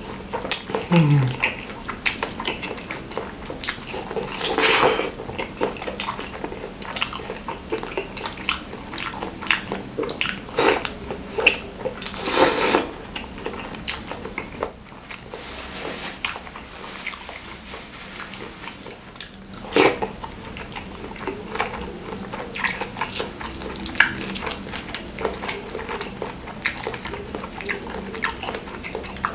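Close-miked eating: biting and chewing a fried meatball and chilli-sauced noodles, with wet mouth smacks and short clicks of a metal fork in the bowl.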